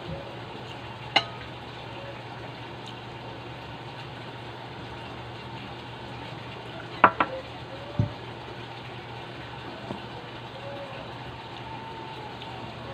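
Mealtime sounds during eating: a sharp clink about a second in, two quick clinks around seven seconds and a dull knock just after, over a steady low hum.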